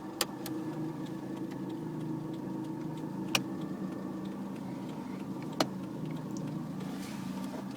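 Skoda Felicia pickup's 1.3-litre petrol engine idling steadily, heard from inside the cab, with four sharp clicks about two seconds apart.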